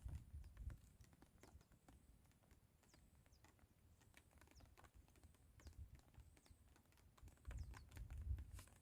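Faint wind buffeting the microphone in low rumbling gusts, strongest near the start and again near the end, with scattered faint clicks.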